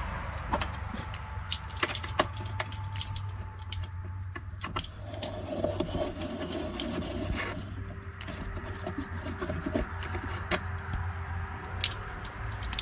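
Scattered clicks, taps and rattles of hand tools and mower parts being handled while the throttle cable is worked free of the control panel, over a steady low hum.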